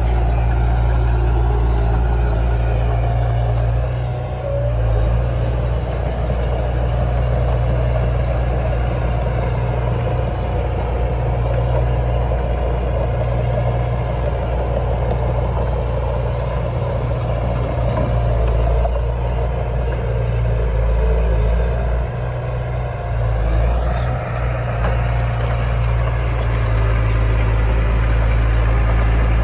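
Heavy diesel engine of earthmoving machinery running steadily under load, with a few brief dips in loudness.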